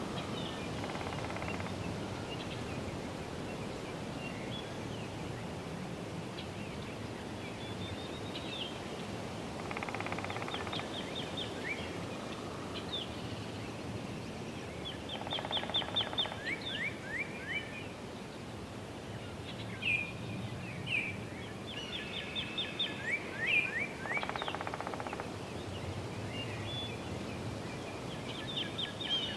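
Woodpecker hammering on a tree in short, very rapid bursts, about four of them. Songbirds sing over it in repeated chirps and quick downward-sweeping notes, above a steady background hum of wind and distant road traffic.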